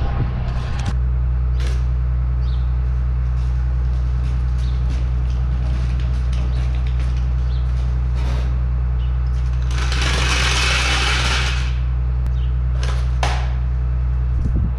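Tractor engine running steadily at a low idle, with a few clicks or knocks and a hiss lasting about two seconds around ten seconds in.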